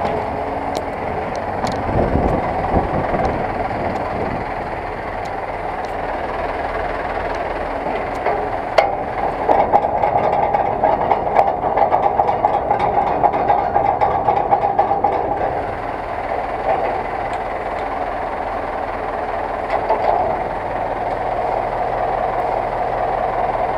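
Zetor 6911 tractor's four-cylinder diesel engine running steadily, with a stretch of louder rattling clatter in the middle.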